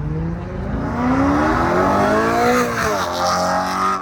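A BMW accelerating, its engine note climbing for about two and a half seconds, dropping back at a gear change, then pulling again before the sound drops off suddenly at the end.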